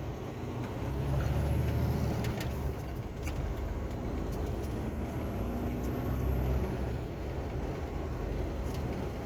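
Container truck's diesel engine running, a low rumble that swells twice, with a few light clicks.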